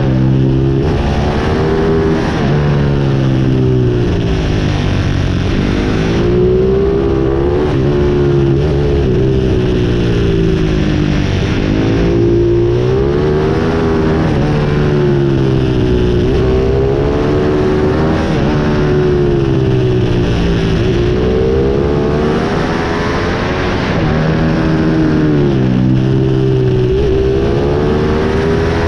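Pit bike's small single-cylinder engine being ridden hard, its pitch climbing and dropping again every few seconds as the rider opens and closes the throttle.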